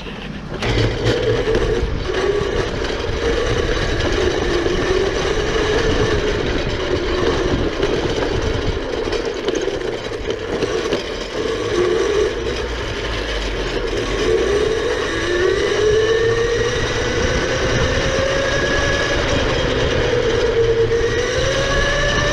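Mini electric quad bike's motor whining as it is ridden, its pitch wavering up and down with speed and climbing steadily in the second half, over a low rumble.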